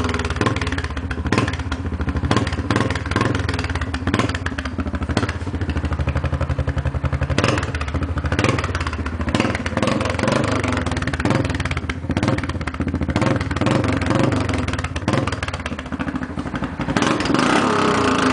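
Yamaha Grizzly 450 ATV's single-cylinder four-stroke engine running through an FMF aftermarket exhaust, its loudness rising and falling as the throttle is worked, with a stronger rev near the end.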